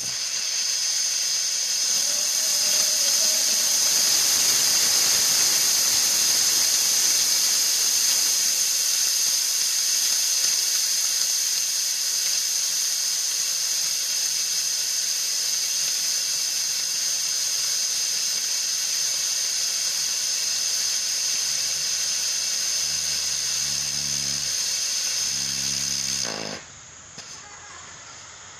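Hybrid rocket engine with an oak fuel grain firing: a steady, high-pitched hissing burn. A low, regular pulsing joins in over the last few seconds, and about twenty-six seconds in the burn cuts off suddenly.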